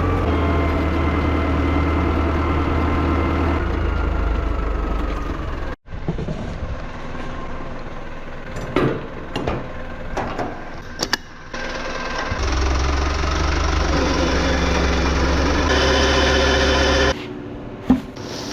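Engine running steadily, interrupted by two abrupt cuts, with a cluster of sharp clicks and knocks in the middle.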